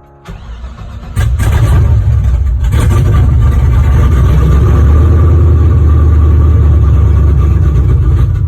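Chevrolet C10 pickup engine on a cold start: it catches about a second in and then runs loud and steady.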